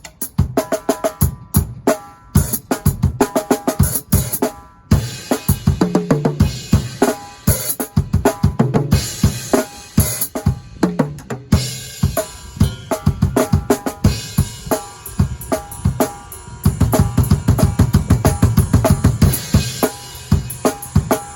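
A drum kit being played: quick snare, tom and cymbal hits in a busy pattern, turning into a run of fast, steady bass-drum strokes with cymbals in the last few seconds.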